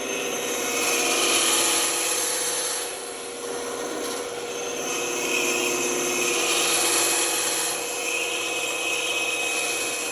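Band saw running with a steady hum, its blade cutting wood in two long passes, each growing louder and then easing off, with a short lull about three seconds in.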